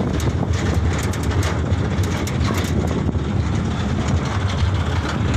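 Canter light truck on the move: a steady low road-and-engine rumble, with scattered light rattling clicks.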